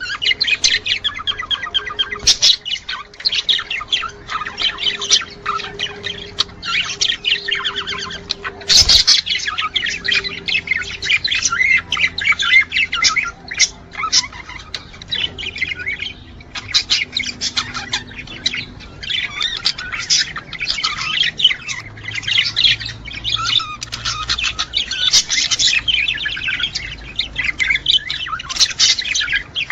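Many budgerigars warbling and chattering without pause, the breeding-time song of male budgies. A single sharp click about nine seconds in.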